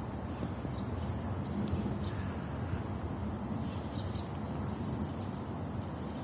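Steady low outdoor rumble with a few short, high chirps of small birds scattered through it.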